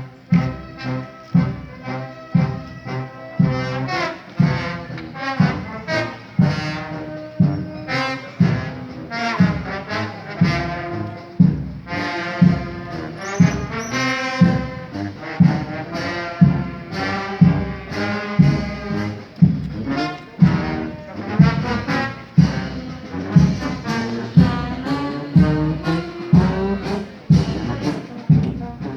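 A brass band playing a slow march, its trombones and trumpets holding notes over a drum beat about once a second.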